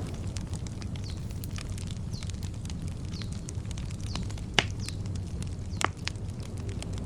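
Wood campfire crackling over a steady low rumble, with two sharp pops a little after halfway. Birds chirp faintly in the background.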